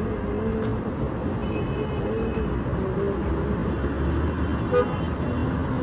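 Steady road traffic noise: vehicles running along a city street, a constant low rumble.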